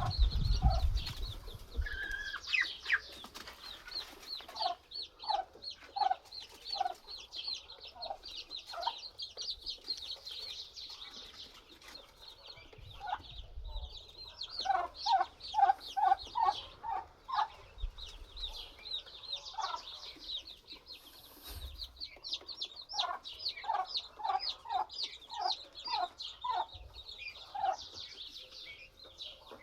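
Poultry clucking in runs of short, repeated calls, about two or three a second, over continuous high-pitched peeping and chirping.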